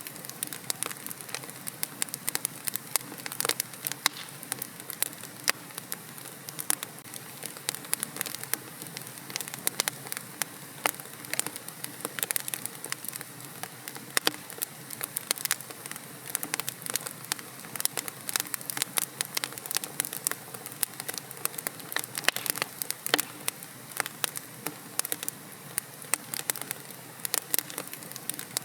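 Wood fire crackling in a fireplace: a steady hiss with many quick, irregular pops and snaps.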